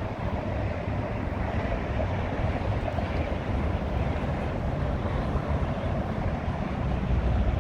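Wind buffeting the microphone: a steady low rumble with a rushing hiss above it.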